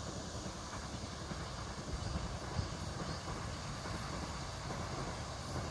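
Distant ITX-Saemaeul electric multiple-unit train running along the track: a steady low rumble and hiss that swells slightly in the second half. A faint high-pitched pulsing, about four beats a second, comes in near the end.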